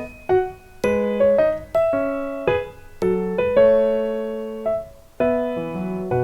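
Background piano music: a light melody of struck notes and chords, some held and left to ring.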